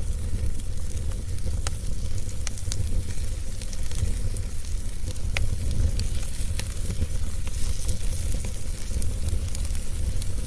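Wood fire crackling: irregular sharp pops and snaps scattered through a steady hiss, over a constant low rumble.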